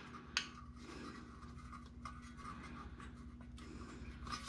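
Faint scraping and rubbing of parts being handled, with a light click about half a second in, over a faint steady hum.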